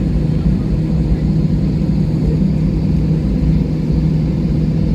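Steady low drone of an airliner's idling engines and air conditioning heard from inside the cabin while the plane holds on the ground, with an even hum running under it.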